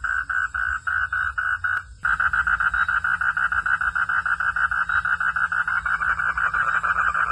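Frogs calling in a steady rhythm of pulsed croaks, about four a second. About two seconds in there is a short break and a click, and then the calling comes faster and denser.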